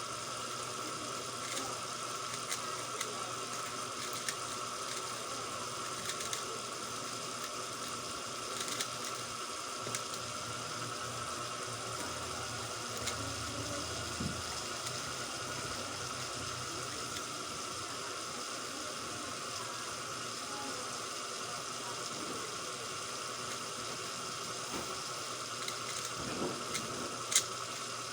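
X-Man Tornado V3M 3x3 speedcube being turned quickly, a run of soft plastic clicks and clacks over a steady hiss, with one sharp knock near the end.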